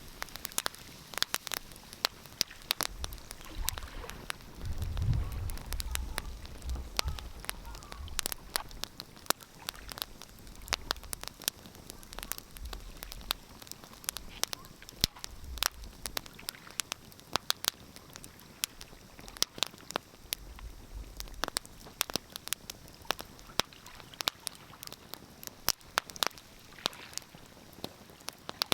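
Wood fire crackling in a fireplace: irregular sharp pops and snaps throughout. A low rumble swells for a few seconds about four seconds in and briefly again later.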